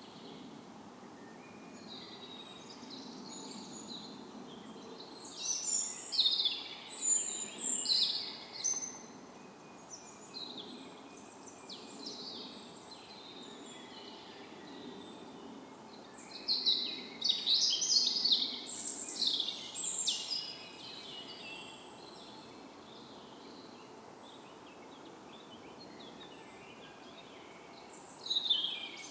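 Songbirds singing over a steady background hiss: one loud bird delivers bursts of quick, high phrases about five seconds in and again around sixteen seconds in, with another burst starting near the end, while fainter chirps come in between.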